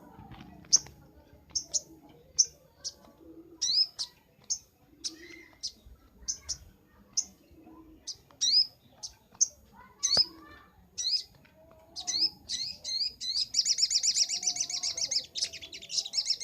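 Sogok ontong (crimson sunbird) singing: a string of short, sharp, high chirps about twice a second, breaking about three-quarters of the way through into a fast, continuous trill.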